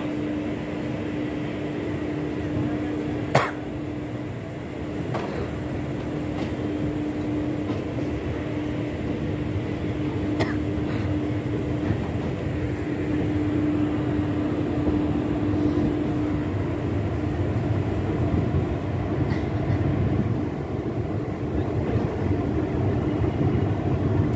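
Visakhapatnam–Rayagada Express passenger train pulling slowly out of the station: a steady hum over rumbling running noise that grows gradually louder. One sharp clack comes about three seconds in, with a few fainter clicks later.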